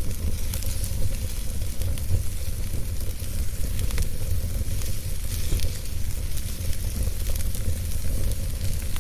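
Wood fire burning in a fireplace: steady crackling with scattered sharp pops, over a low rumble.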